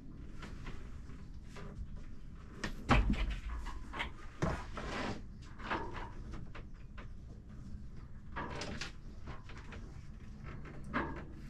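Cabin cupboard or locker doors being opened and shut: a run of knocks, clicks and rustling handling noise, with one loud thump about three seconds in.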